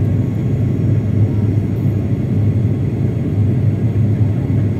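Airliner cabin noise on the approach to landing: a steady low rumble of the engines and airflow, heard from inside the passenger cabin.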